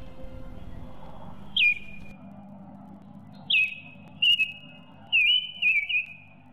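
Bird calls: a handful of short whistled chirps, each dropping sharply in pitch and then holding a note, over a faint low background.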